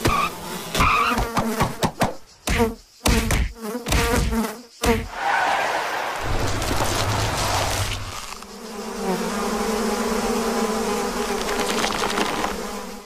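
Cartoon insect buzzing: wings droning in choppy bursts for the first few seconds, then a steady drone that cuts off abruptly at the end.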